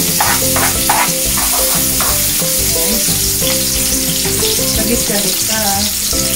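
Chopped onions sizzling as they sauté in a hot frying pan with little oil, with a spatula scraping through them in short repeated strokes for the first couple of seconds, then a steady sizzle.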